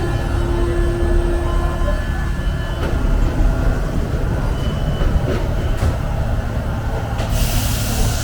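Rubber-tyred MP 05 Paris Métro train running with a steady low rumble. A steady tone is heard for the first three seconds, and a loud hiss starts near the end.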